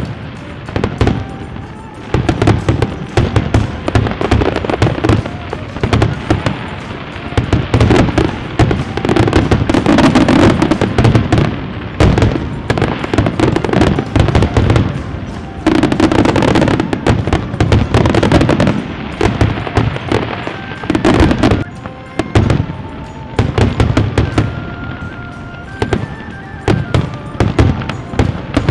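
Fireworks going off in rapid, continuous bangs and crackle, with the densest barrages about eight to eleven seconds in and again around sixteen to nineteen seconds. Music plays underneath.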